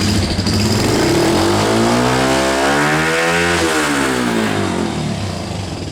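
Yamaha FZS single-cylinder motorcycle engine breathing through a Daytona aftermarket exhaust, revved once. The pitch climbs steadily for about two and a half seconds to a high peak, then falls back over about a second and a half; an aftermarket CDI kit has raised the rev limit toward 10,000 rpm.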